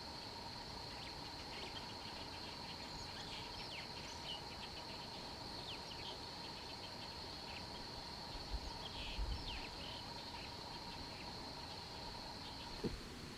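Outdoor ambience dominated by a steady high-pitched insect drone of crickets or cicadas, with a fainter lower hum. Scattered short bird chirps run through it. A few low thumps come about nine seconds in, and there is a sharp click near the end.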